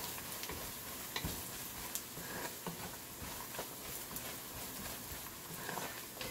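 Chopped onion and spices sizzling in hot oil as a wooden spatula stirs them, with scattered light clicks and scrapes of the spatula against the pot.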